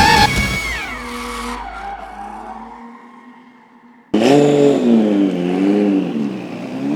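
Skyline R32's billet RB28 straight-six at high revs, then lifting off: the engine note falls in pitch and fades away over about three seconds. About four seconds in a different sound cuts in abruptly, a set of wavering pitched tones.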